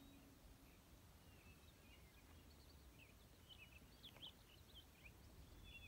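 Faint high chirps of small birds, a few at first and coming several a second in the second half, over a low rumble.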